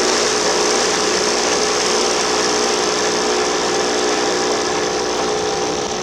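Boat's engine running steadily as the sailboat motors along slowly: a constant drone over a thick hiss, easing slightly near the end.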